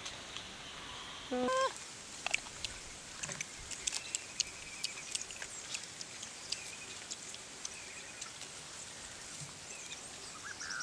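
Soft, irregular mouth clicks of someone chewing juicy fruit, over outdoor ambience of birds chirping and a steady insect hiss. A brief pitched call about a second and a half in.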